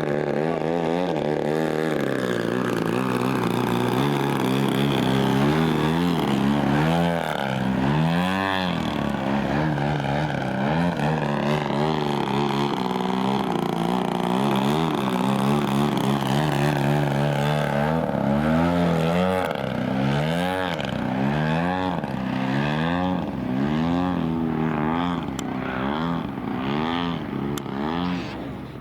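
Radio-controlled model aircraft flying overhead, its engine sound steady and loud but swinging up and down in pitch again and again as it makes passes and turns.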